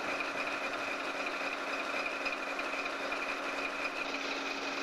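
Caterpillar diesel engine of a Baldwin-Lima-Hamilton switcher locomotive idling steadily, with an even hum and a constant high whine.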